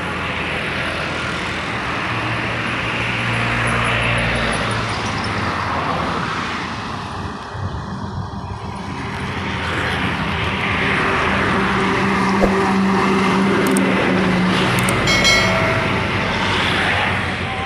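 Heavy highway traffic, trucks among it, going past: tyre and engine noise swells as one vehicle passes about four seconds in and another, with a steady engine hum, passes in the second half.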